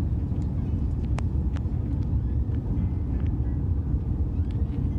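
Cabin noise of an Airbus A350-900 in flight: a steady low rumble of airflow and engines, with a few faint clicks about a second in.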